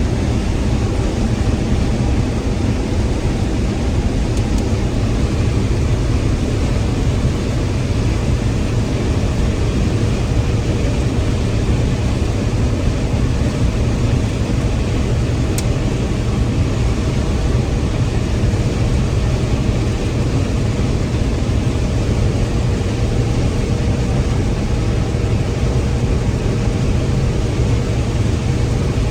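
Combine harvester running steadily while harvesting corn: a loud, even machine drone, heaviest in the low range, with a constant hum over it.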